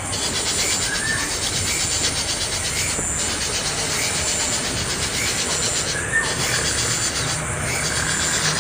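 Young bird's harsh, rasping begging cries, continuous, with a few short rising chirps.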